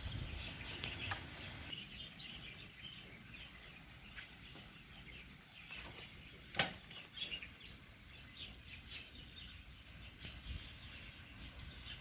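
Birds chirping in short scattered calls, with one sharp click or knock about halfway through.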